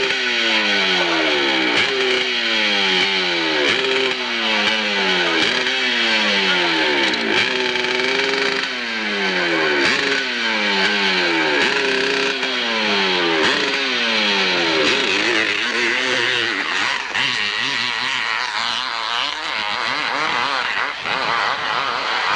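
Hillclimb racing motorcycle engine at high revs, its pitch falling and snapping back up about once a second as the throttle is worked hard on the climb. The pattern turns less regular and less distinct after about fifteen seconds.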